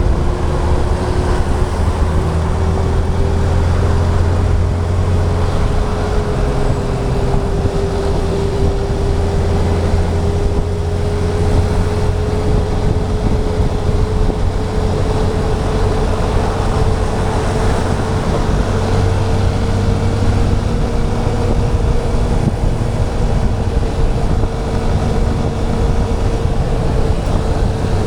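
Yamaha FZ 2.0 motorcycle's single-cylinder engine running steadily at cruising speed, its note rising slowly, under a constant rush of wind and road noise.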